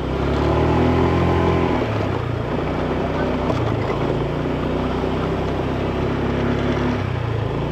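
Motorbike engine running while riding uphill, its note shifting up and down a few times with the throttle, over a hiss of wind and road noise.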